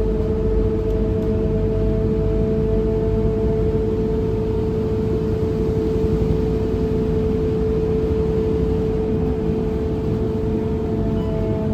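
Scania K230UB city bus heard from on board while under way: steady engine and road rumble, with a steady whine held at one pitch throughout.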